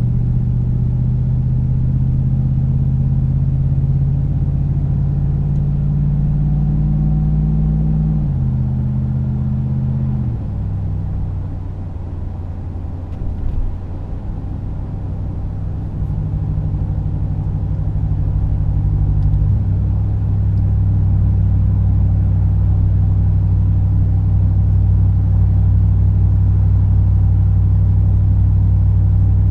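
Ram 2500's 6.4 L Hemi V8 through a Magnaflow 19200 cat-back exhaust, droning low while driving. The pitch drops in two steps, eases off for a few seconds, then picks back up. It settles into a steady, loud drone for the second half.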